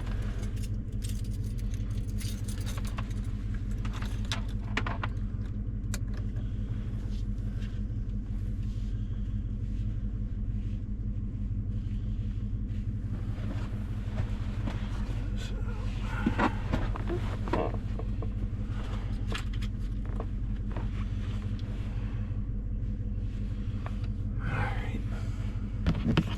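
Chevy Silverado's 5.3-litre V8 idling steadily while it warms up after a cold start. Short clicks and rattles of something being handled come in around the middle and again near the end.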